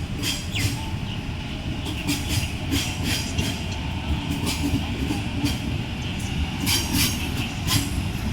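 Electric suburban passenger train running along the platform: a steady low rumble of wheels on rail with frequent sharp clicks and short squeals from the wheels.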